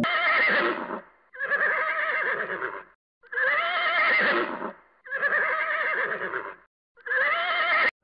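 Horse neighing: five whinnies in a row, each about a second and a half long with a quavering pitch, separated by short silences, the last one cut off.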